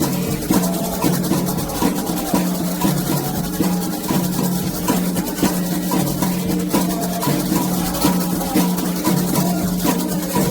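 Candomblé ritual music: atabaque hand drums played in a fast, steady rhythm with shaken percussion, and voices singing over the drums.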